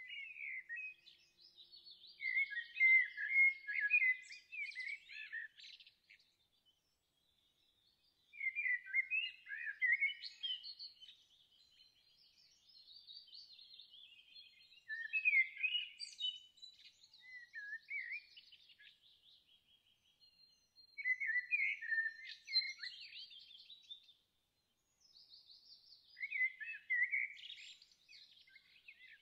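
Songbirds singing in quick, high, warbling phrases that come in bursts of a few seconds each, with short pauses between them.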